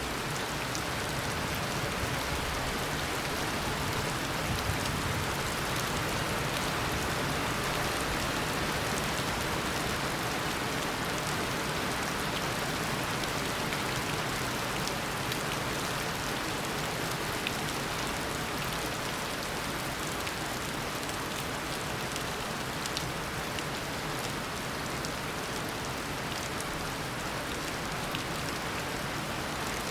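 Steady heavy rain falling on surfaces, a dense even hiss with individual drops pattering and ticking through it.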